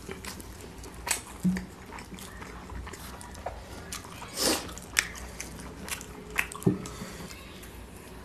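Two people eating chicken curry and rice with their hands, chewing close to the microphone, with scattered short clicks.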